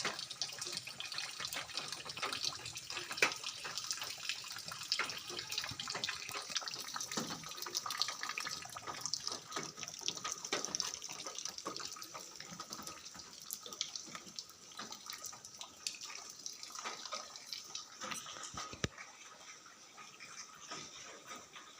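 Rain falling steadily, a dense patter of many small drop ticks over a hiss, a little quieter over the last few seconds.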